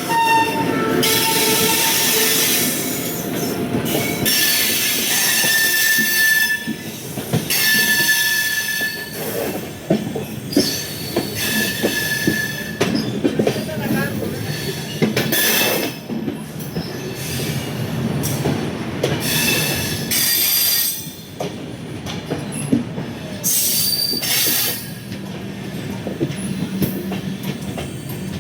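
Indian Railways express train running past: steel wheels squealing on the rails in high, intermittent screeches, with a rapid clatter of wheels over rail joints.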